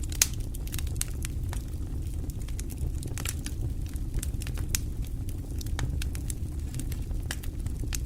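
Wood fire burning in a fireplace: a steady low rumble with frequent irregular sharp crackles and pops, one louder pop a few tenths of a second in.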